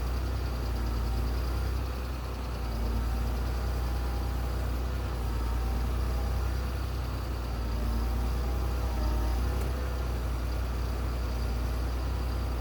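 A heavy engine running steadily, with a deep low rumble.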